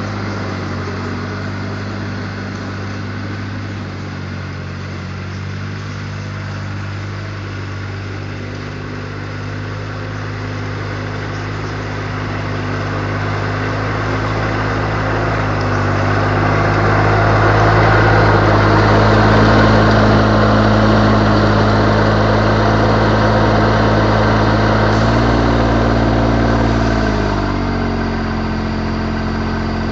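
Riding tractor mower's engine running steadily, growing louder through the middle. Near the end its note drops in steps and fades.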